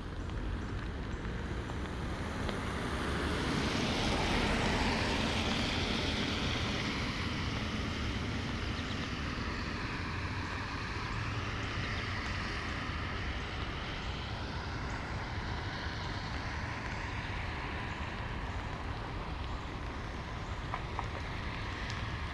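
A car passing on a wet road: tyre hiss swells about four seconds in and slowly fades, over the steady patter of light rain.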